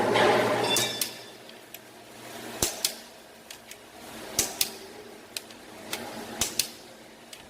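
Hand tools working on engine parts: a second of dense mechanical rattle, then sharp metallic clicks and clinks, mostly in close pairs every couple of seconds.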